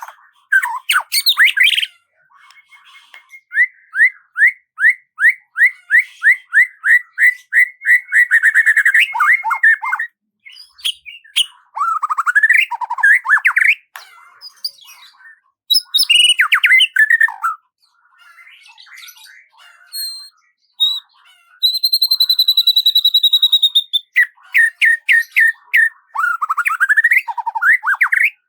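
Songbird song: a fast run of repeated downslurred whistled notes, then varied warbling phrases, and a long, high, steady whistle about three-quarters of the way through.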